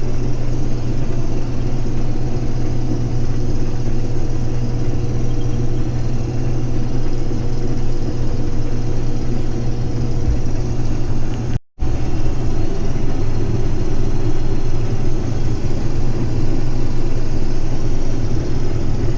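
Case IH 2388 combine running steadily under load while harvesting wheat, a loud even drone of engine and threshing machinery heard from inside the cab. The sound cuts out for a split second near the middle, then resumes unchanged.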